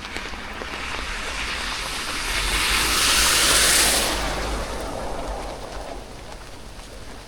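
A vehicle passing on a wet road: the hiss of its tyres through water, with a low rumble, swells to a peak about three to four seconds in, then fades away.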